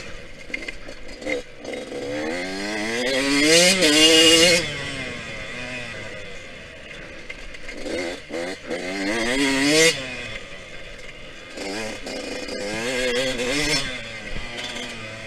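Yamaha YZ125X two-stroke dirt bike engine accelerating in three surges, each rising in pitch and then cut off sharply as the throttle is chopped. The first surge, about four seconds in, is the loudest.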